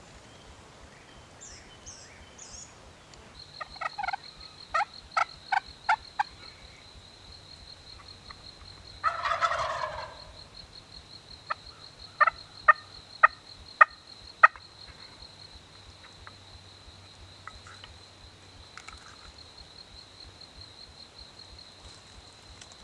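A wild turkey gobbles once, about nine seconds in, between two runs of about six short, sharp calls, one starting about four seconds in and the other about eleven seconds in. A thin, steady high whine runs underneath from about three seconds in.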